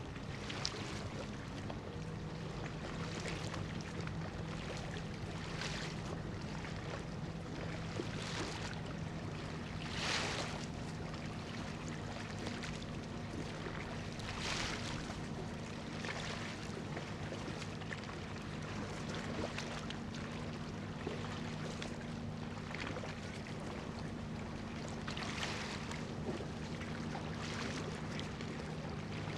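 Low, steady drone of an anchored cargo ship's diesel engine carrying across the water, with small waves washing in every few seconds.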